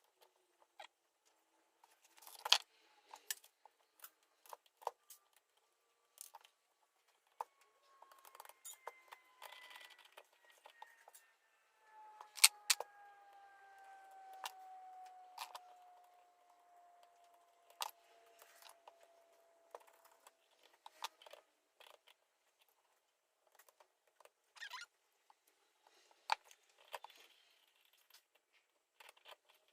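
Small steel motorcycle transmission parts (gears, shafts, bearings) clicking and clinking as they are handled and fitted, with the loudest knocks at about two and a half and twelve and a half seconds. From about twelve seconds in, a faint whirring tone falls slowly in pitch over about four seconds.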